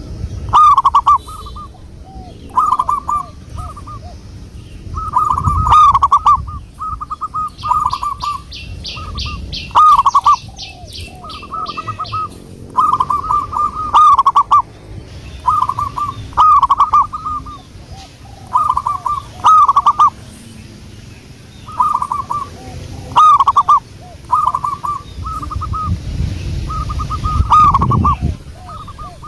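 Zebra dove (perkutut) cooing in repeated phrases of quick staccato notes, a new phrase every couple of seconds. Another bird's fast high trill runs from about 7 to 10 seconds in, and a low rumble is heard near the end.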